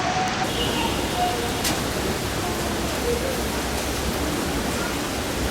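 Steady rolling noise of a Keihan Keishin Line electric train running between stations: an even rushing hiss with a low rumble underneath.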